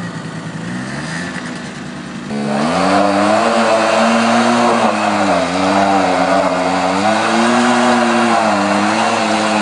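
Off-road vehicle engine running low, then revving up sharply about two seconds in and held high, its pitch wavering up and down as the throttle is worked.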